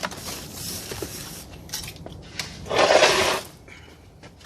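Handling noises from a heavy boxed farmhouse sink being maneuvered: scattered knocks and clicks, with one loud scraping rustle lasting about half a second a little under three seconds in.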